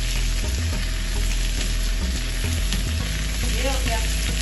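Potato wedges and onions sizzling steadily in a grill pan.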